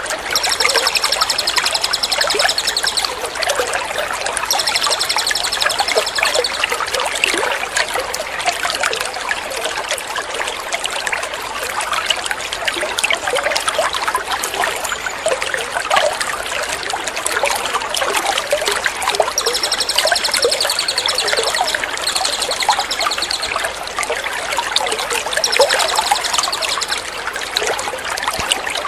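Steady trickling, splashing water from a water-therapy track. Over it, a small songbird's rapid, high trilled song comes in bursts of one to two seconds, five times.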